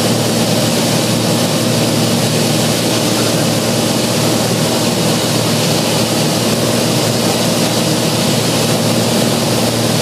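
Cessna 182's piston engine and propeller running steadily in flight: a constant drone with an even hiss over it.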